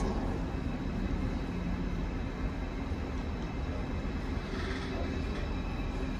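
Covered steel-coil freight wagons (Shimmns type) rolling slowly past on the rails: a steady low rumble of wheels and bogies.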